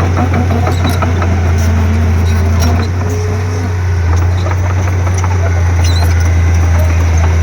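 Komatsu D31P crawler bulldozer's diesel engine running under load, a steady low drone, with scattered sharp clicks and small squeaks from the working machine.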